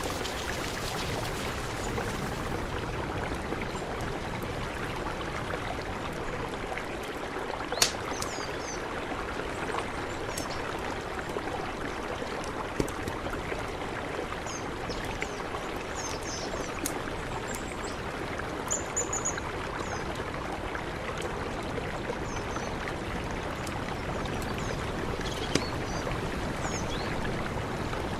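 Mountain river flowing steadily, a continuous rushing of water. A few sharp clicks stand out, the loudest about eight seconds in.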